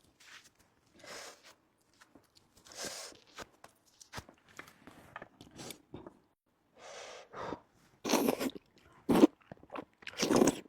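Close-miked eating: irregular chewing, biting and crunching mouth noises in short bursts, a few louder ones near the end.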